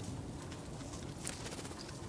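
Steady low outdoor background noise with a few faint, short high-pitched chips from small songbirds at a backyard feeder.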